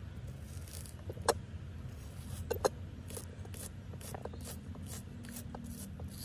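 Knife chopping bilimbi fruit on a dried areca leaf sheath: a run of short, light chops, several a second, with two louder ones in the first few seconds.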